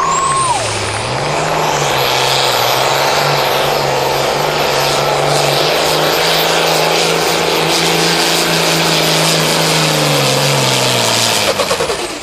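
Pro Farm pulling tractor's turbocharged diesel engine running flat out during a pull. A high turbo whistle climbs over the first couple of seconds, holds steady, and falls away near the end as the engine comes off power.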